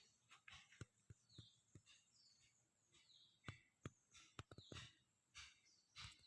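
Faint, quiet countryside background: scattered soft irregular clicks and taps, with a few short high bird chirps.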